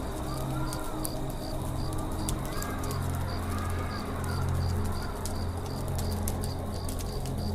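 Campfire crackling with irregular sharp pops over a low steady rumble, while birds call in arching whistles and a high chirp repeats about three times a second.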